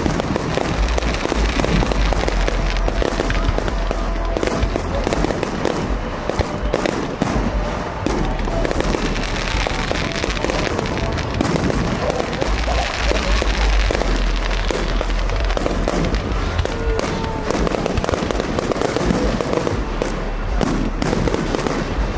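Fireworks display: aerial shells bursting in a dense, continuous run of crackling and bangs.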